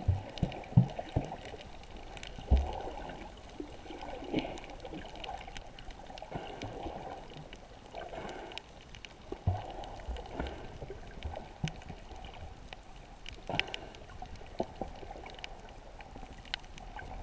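Muffled water sloshing and gurgling around a GoPro in its waterproof housing while filming underwater, with a few low knocks in the first seconds and scattered clicks later.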